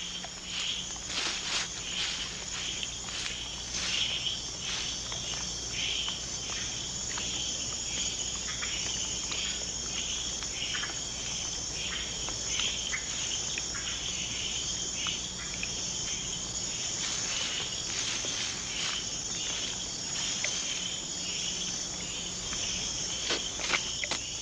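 Rainforest night chorus: steady high-pitched insect trilling, with many short, sharp chirping calls scattered irregularly throughout.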